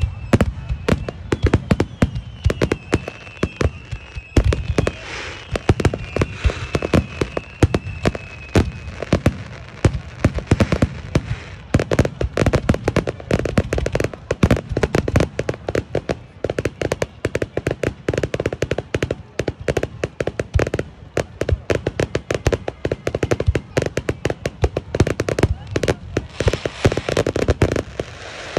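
Fireworks display: a dense barrage of shells bursting, rapid bangs and crackling with no let-up. A thin, wavering whistle runs over the first several seconds.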